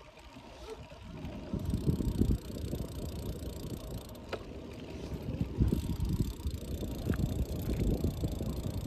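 Wind buffeting the microphone on a moving bike: a low, gusty rumble that swells about two seconds in, with a single click about four seconds in.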